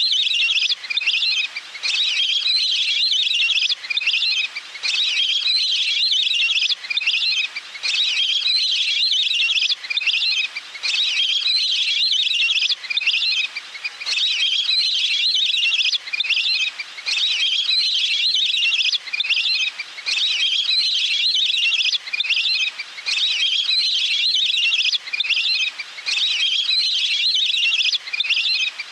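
Lure recording of water duck (นกเป็ดน้ำ) calls: rapid, chattering trilled calls in bursts of a second or two with short breaks, repeated without pause, played to draw the birds in.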